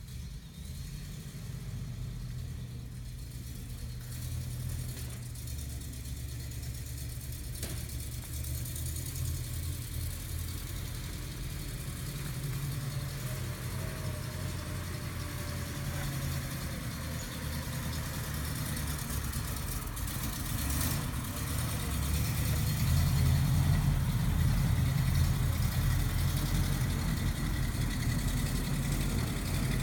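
1962 Studebaker truck engine idling steadily with a low rumble, getting louder about two-thirds of the way through.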